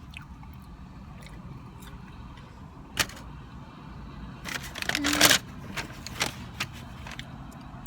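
Clicks and rustling of objects being handled: one sharp click about three seconds in, then a burst of rustling and clatter around five seconds, followed by a few lighter clicks.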